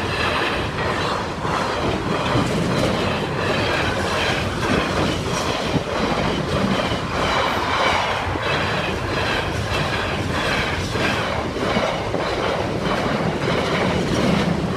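Freight train hauled by a Class 66 diesel locomotive passing close by. Its wagons' wheels keep up a steady, rhythmic clatter over the rails, with a little high wheel squeal.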